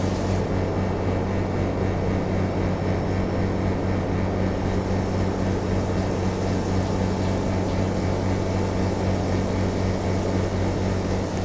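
Air conditioner running steadily: a constant low electrical-motor hum under an even rush of blown air.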